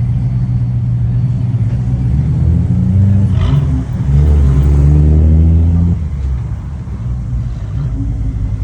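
Car engine running loudly under acceleration. About three and a half seconds in the pitch shifts, then it gets louder and deeper for about two seconds before easing off.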